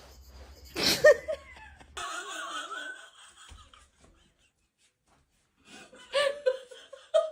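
People laughing in short bursts, with a sudden loud sound about a second in.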